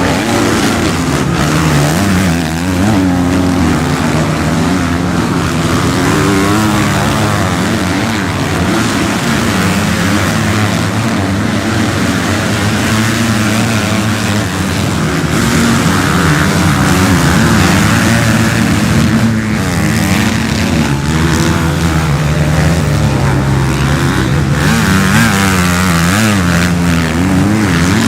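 Motocross bike engines racing, revving up and down again and again as the bikes accelerate and shift through gears.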